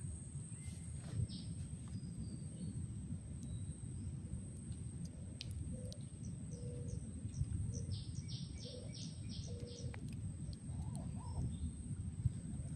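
Small bird chirping outdoors: a quick run of about six short, high chirps near the middle, with fainter lower notes around them, over a steady low background rumble.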